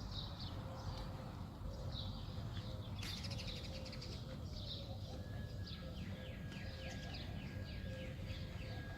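Small birds chirping and twittering, with a quick run of short falling chirps in the second half, over a steady low outdoor rumble.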